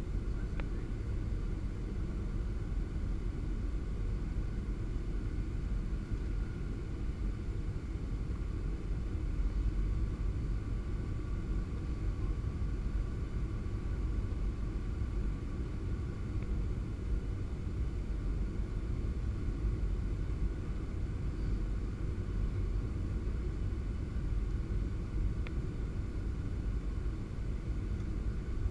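Steady low rumble of a Boeing 737-700's CFM56-7B engines and airflow, heard from inside the cabin in flight.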